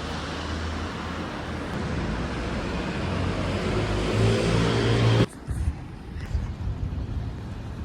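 Road traffic noise, with a vehicle engine's note swelling as it passes. The sound cuts off abruptly about five seconds in, leaving quieter outdoor background noise.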